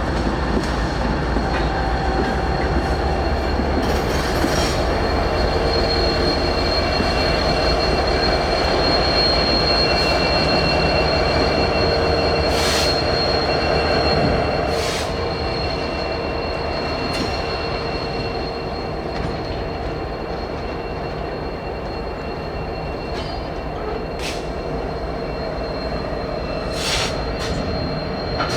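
Freight train rolling slowly along the rails with its wheels squealing in long held tones, over a steady rumble and a few sharp clanks. It gets quieter about halfway through.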